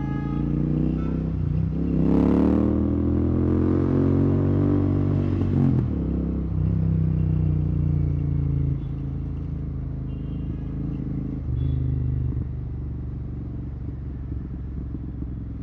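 Royal Enfield Continental GT 650's 648 cc parallel-twin engine running through a Red Rooster aftermarket exhaust with the dB killer removed. About two seconds in it revs up sharply, then the pitch falls slowly over the next few seconds, and it settles into a steadier, lower run with brief dips.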